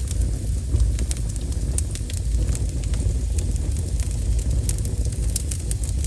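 Wood fire burning with a steady low rumble and irregular sharp crackles and pops, which come more thickly near the end.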